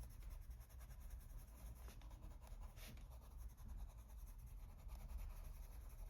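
Faint scratching of a coloured pencil shading and blending on paper, over a low steady room hum.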